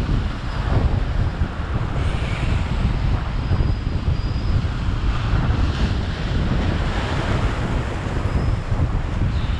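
Wind buffeting the microphone in a loud, steady low rumble, with surf washing behind it.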